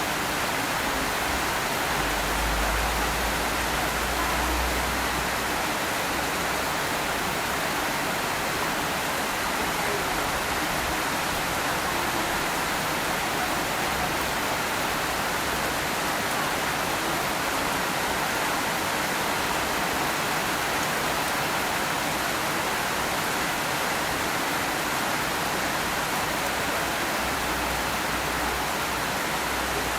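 Steady rain falling, an even hiss, with a brief low rumble about two seconds in that lasts a few seconds.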